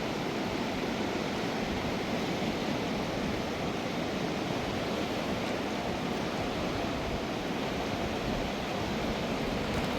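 Fast mountain river rushing over rocks: a steady, even roar of water.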